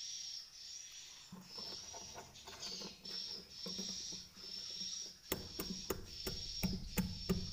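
Swiftlet calls: high chirps repeating every half-second or so. About five seconds in, a rapid run of sharp clicks joins them.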